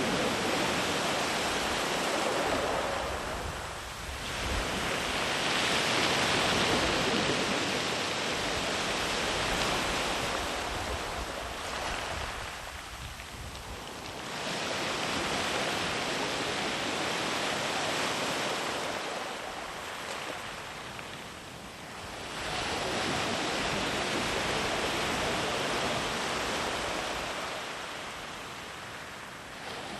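Ocean surf washing on a beach: a steady rush of breaking waves that swells and ebbs about every eight seconds, with some wind on the microphone.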